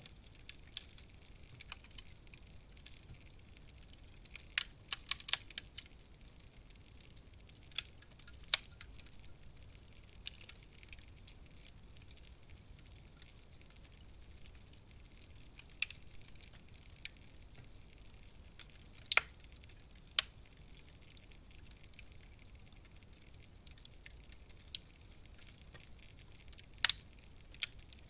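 Wood fire crackling in a fireplace: a faint steady hiss broken by scattered sharp pops and snaps, with a quick run of several snaps about five seconds in and single pops spread out after that.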